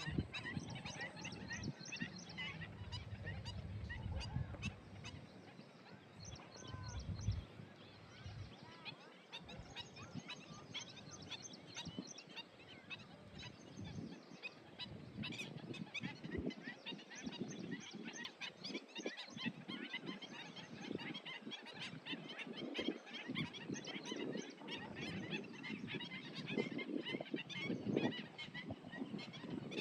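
A flock of birds calling together, with many quick high chirps overlapping throughout and a few lower calls mixed in.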